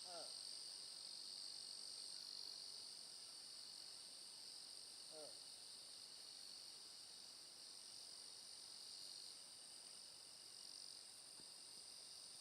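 Faint steady chorus of insects, a continuous high-pitched trilling at two pitches. Brief snatches of a voice come right at the start and about five seconds in.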